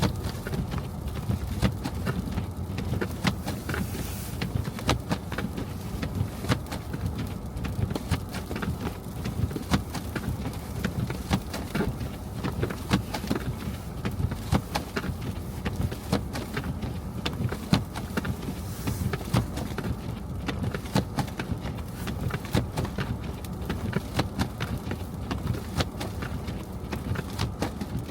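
Car driving through a snowy street: a steady low rumble of the car and road, with many irregular sharp ticks and clicks over it.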